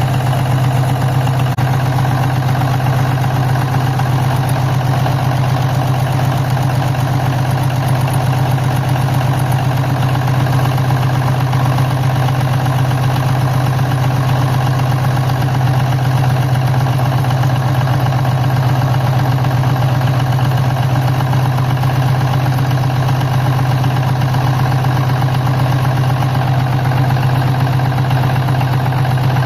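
Diesel engine idling steadily, a loud even low hum with no change in speed.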